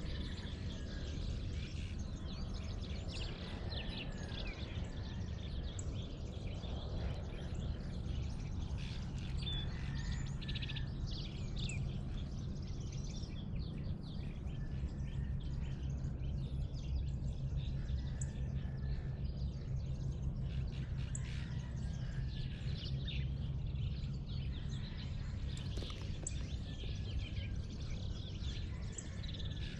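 Dawn chorus of many small birds chirping and calling over one another, over a steady low hum.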